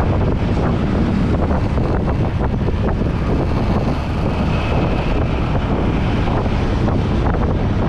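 Wind buffeting the microphone of a moving motorbike: a steady, loud rush with the bike's road noise underneath.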